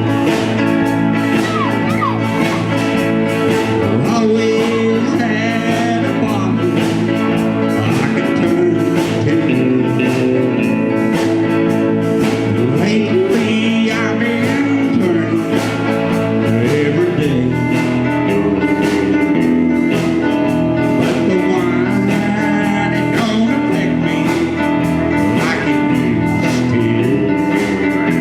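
A band playing a blues-rock song: electric guitar over bass and drums, with a voice singing.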